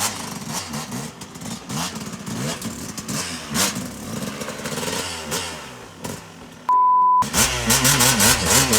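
Dirt bike engine revving hard and unevenly, its pitch repeatedly climbing and dropping as the rider works the throttle to get through rough terrain. About two-thirds of the way through, a short steady beep lasting about half a second cuts in over everything, and then the revving comes back louder.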